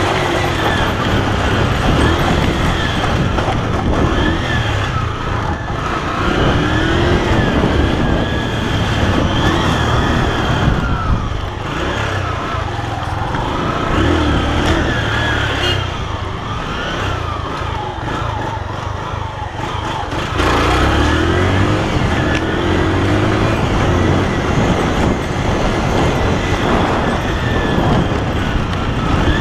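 Honda CG 125's single-cylinder four-stroke engine running while the bike is ridden, its revs repeatedly rising and falling. The revs drop briefly just before twenty seconds in, then pick up sharply again.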